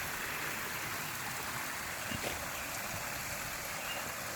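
Backyard pond waterfall: water pouring and splashing steadily into the pond.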